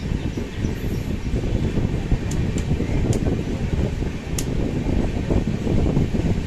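Running noise of a moving passenger express train: a steady low rumble of wheels on track, with a few faint light ticks.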